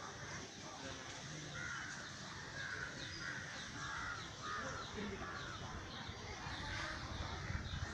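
Birds calling in a run of short, rough calls, about two a second, over a faint steady outdoor background.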